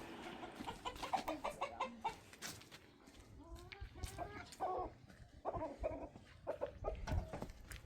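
Hens clucking, a run of short repeated calls.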